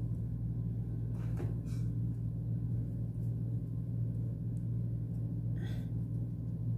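A steady low hum, with a few faint rustles and clicks about a second in and again near the end.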